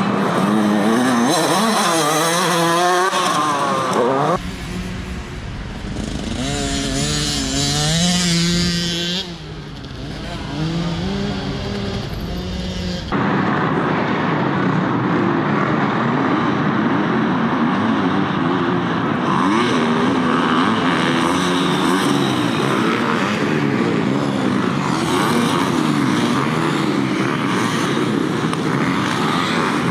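Motocross bike engines revving up and down as they race, the sound changing abruptly about 4 and 13 seconds in. From about 13 seconds in, several bikes are running at once.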